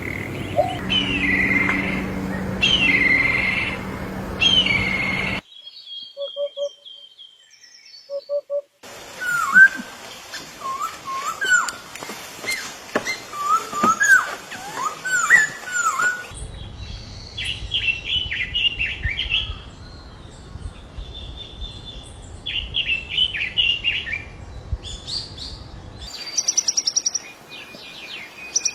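Calls and songs of several different bird species, one recording after another, switching abruptly every few seconds: repeated short chirps and whistled notes, then a rapid high trill near the end.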